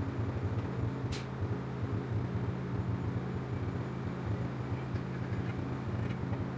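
A steady low machine hum, like an engine or motor running, with one sharp click about a second in and a couple of faint ticks near the end.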